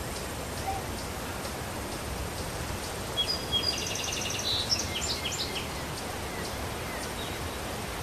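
Steady outdoor background hiss, with a small bird singing a short run of rapid, high, repeated chirps and trills from about three to five and a half seconds in.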